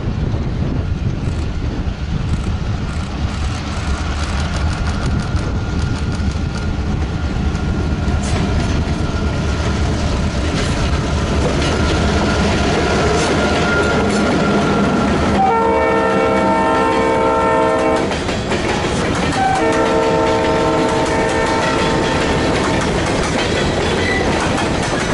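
Diesel freight locomotives rumbling past with wheels clicking over the rail joints, then the locomotive horn sounding two long chord blasts, one about fifteen seconds in and another about twenty seconds in, while covered hopper cars roll by.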